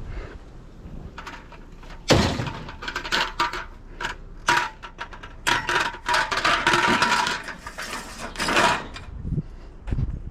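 Metal scrap being handled: a dense run of knocks, clangs and rattles with a ringing metallic tone, starting about two seconds in.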